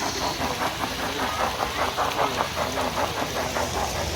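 Garden-scale model train running on its track, a steady rhythmic clicking of about six beats a second.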